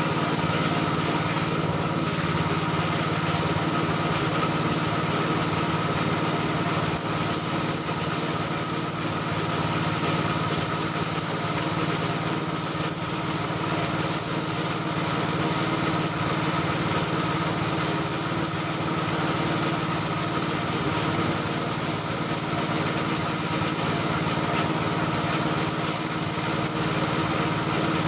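Air compressor motor running steadily with a constant hum, over a hiss of air that stops briefly a few times.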